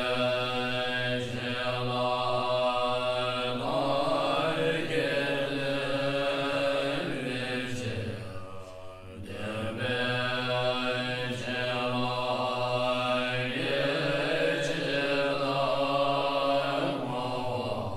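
Mantra chanting in long held notes over a steady low tone, in two similar phrases about nine seconds apart, with a short break between them.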